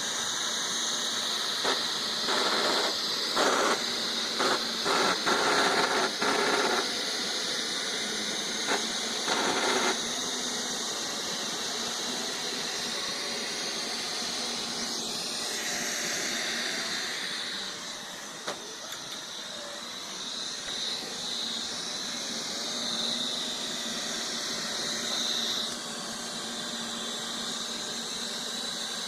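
Neato robot vacuum running with a steady high whine, broken by a run of short, loud grinding bursts during the first ten seconds or so. The grinding is a fault that is still there after the vacuum was repaired.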